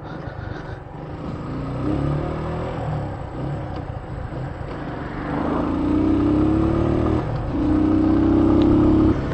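Keeway Cafe Racer 152's single-cylinder engine running under way, climbing in pitch as the motorcycle accelerates, with a brief break about seven seconds in, like a gear change, then pulling at a higher, steadier note.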